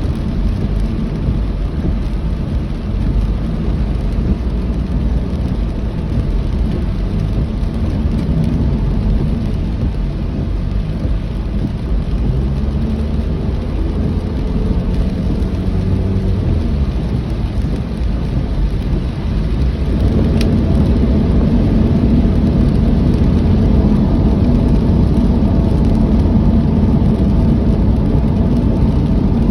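A vehicle driving in heavy rain: a steady low rumble of rain with road and engine noise. The engine note shifts in the middle and steps up louder about two-thirds of the way through.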